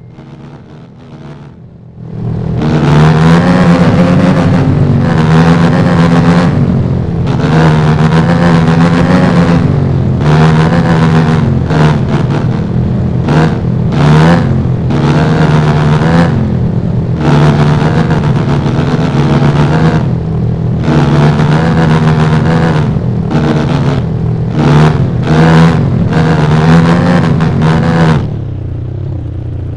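Dirt bike engine revving, its pitch rising and falling with repeated throttle openings and short let-offs. It comes in loud about two seconds in and falls away to a lower, duller sound near the end.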